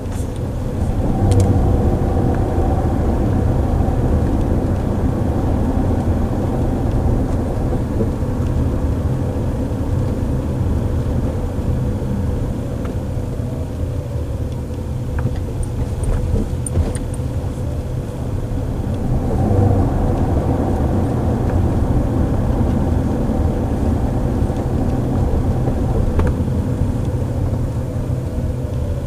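Waymo self-driving car riding along, heard inside the cabin: steady road and tyre rumble with a constant faint hum. A faint whine rises and falls twice as the car speeds up and slows.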